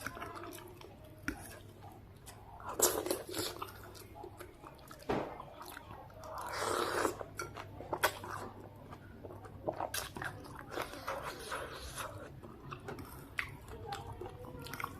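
Close-up eating sounds of a person chewing and biting through noodle soup with bird's eye chilies: irregular wet mouth clicks, with a longer noisy stretch about six to seven seconds in.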